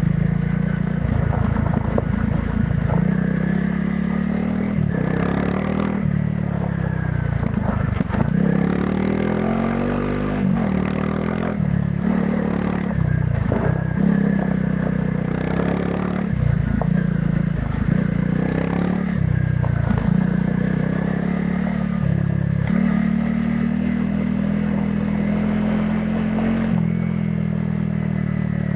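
Honda CRF300 Rally's single-cylinder engine through its stock exhaust, ridden off-road, the engine note rising and falling every second or two as the throttle is opened and closed. Occasional knocks and rattles from the bike over rough ground.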